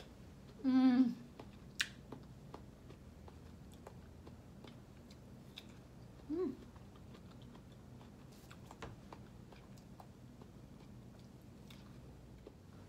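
A person chewing and eating close to the microphone, with many small wet mouth clicks. There is a short vocal sound about a second in and another, shorter one a little past halfway.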